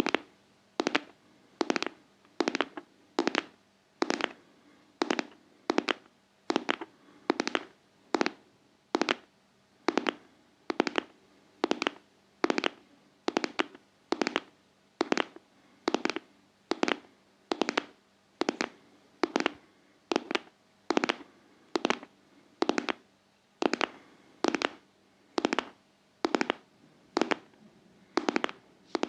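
ASMR heart-tapping: sharp, even taps a little more than once a second in a steady rhythm, each with a brief ring.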